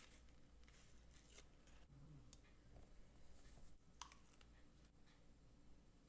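Near silence, with a few faint, scattered clicks and rustles as paper stickers are peeled and placed with tweezers.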